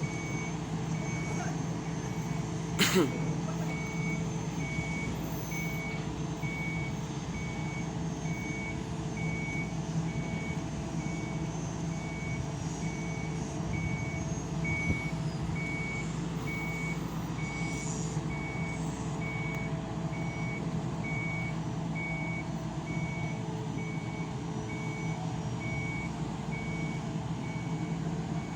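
A machine's warning beeper sounding an evenly repeated high beep over an engine running steadily, with one sharp knock about three seconds in.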